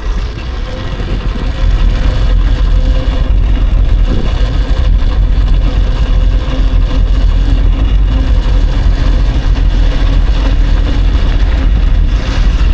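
Wind buffeting the microphone with tyre and ride noise as an electric dirt bike gets up to speed, swelling over the first second and a half and then holding steady, with a faint steady hum underneath.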